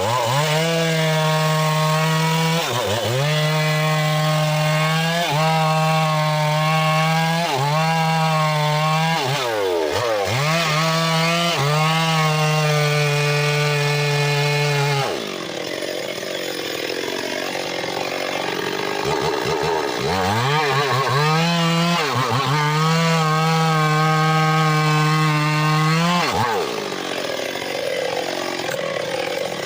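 Engine-driven homemade circular saw rig ripping a mahogany log: a steady pitched engine drone that sags and recovers every two or three seconds as the cut loads it. About halfway through it drops to a lower, rougher sound for several seconds, then holds its pitch again in a second cut before falling away near the end.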